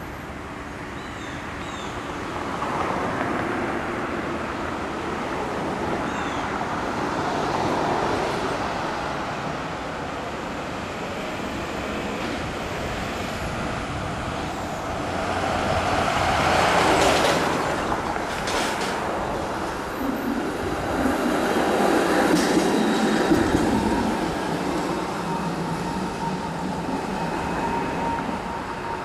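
TTC CLRV streetcar running past on its rails, the steel wheels rumbling as the sound swells and fades, with a few sharp clicks about halfway through.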